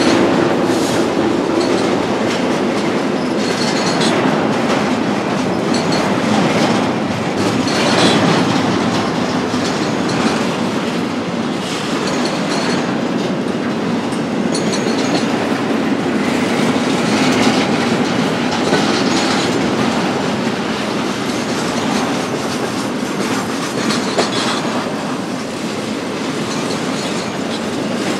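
BNSF intermodal freight train rolling past: a steady rumble of wheels on rail with irregular clickety-clack.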